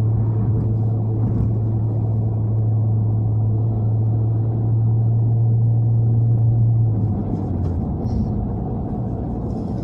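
Honda Civic hatchback's four-cylinder engine running at steady revs under way, a constant drone. About seven seconds in the pitch drops slightly and the drone eases off as the car slows or the throttle is lifted.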